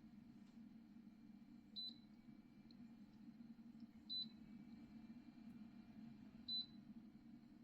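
Three short high electronic beeps, evenly spaced about two and a half seconds apart, over a faint steady low hum.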